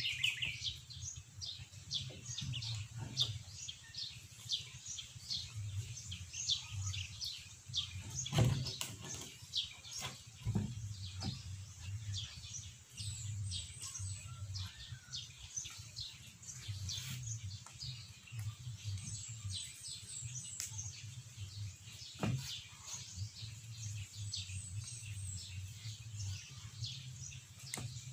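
Small birds chirping in quick, steady succession, with a low hum underneath. Three sharp knocks come about a third of the way in, a little after, and again about three-quarters through.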